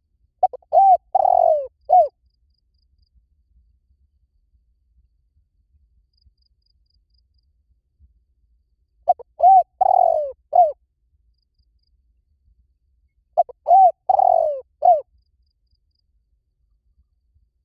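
Spotted dove cooing: three phrases of four to five soft, arched coos each, repeated every few seconds with pauses between them.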